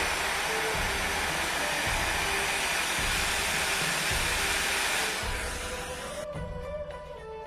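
Hot-air rework gun blowing with a steady rush, fading out about five to six seconds in. Background music with a steady beat runs underneath and is left on its own near the end.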